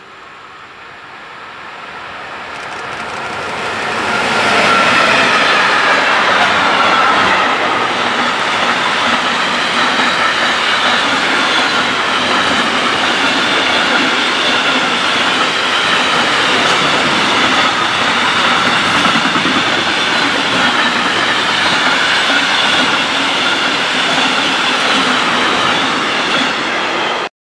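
Container freight train rolling past: the noise builds over about four seconds, then a steady rumble of wagon wheels on the rails with clickety-clack and high squealing tones from the wheels ringing above it. It cuts off abruptly near the end.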